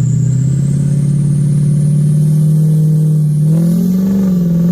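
Diesel pickup truck engine pulling hard under load as the truck plows through snow drifts. It runs at a steady note, then revs up about three and a half seconds in, with a faint high whine above it.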